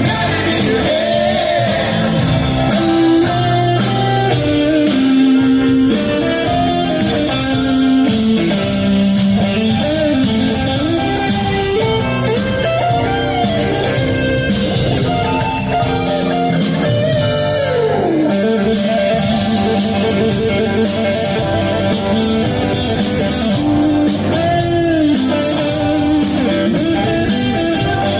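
Live rock band playing an instrumental passage led by an electric guitar solo, the lead line sliding and bending in pitch over bass and a steady drum beat.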